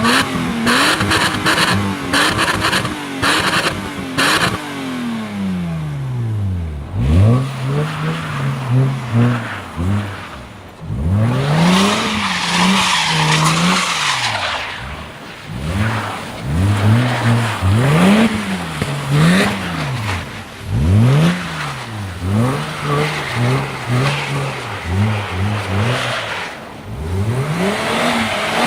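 Car engine revving hard through a 5Zigen sport exhaust muffler, its pitch climbing and falling over and over as the car is driven hard.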